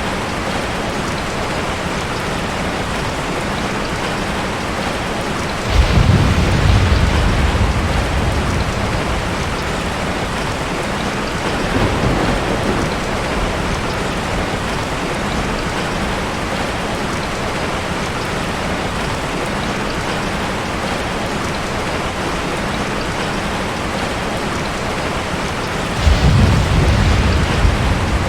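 Heavy rain falling steadily, with thunder: a sudden low rumble about six seconds in that dies away over a few seconds, a fainter roll a few seconds later, and another loud clap and rumble near the end.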